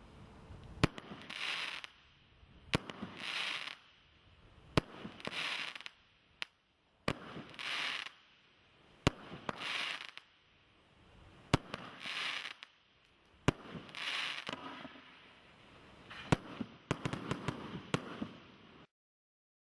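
A 98-shot firework barrage cake firing: a sharp bang about every two seconds, each followed by about a second of crackle. A quick flurry of bangs comes near the end, then the sound stops suddenly.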